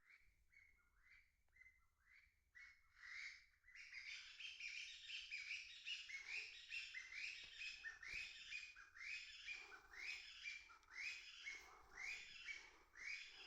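Unidentified wild birds calling in quick series of short, falling notes, a few a second at first, thickening about four seconds in into an overlapping chatter.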